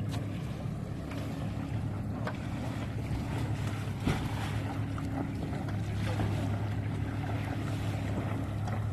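A boat's engine running steadily at a low hum, under the rush of wind and water, with a single knock about four seconds in.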